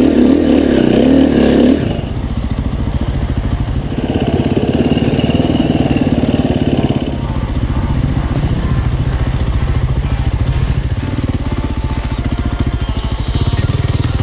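Enduro dirt bike engine running on the trail. The throttle is eased off about two seconds in and again about seven seconds in, and opened again around four and eleven seconds.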